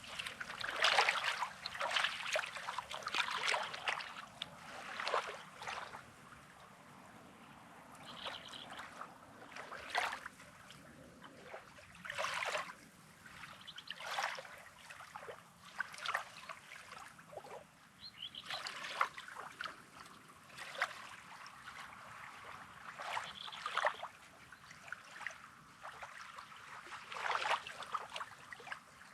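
Small sea waves lapping and washing over a rocky sand shore, in irregular swishes every second or two, busier at first and then quieter.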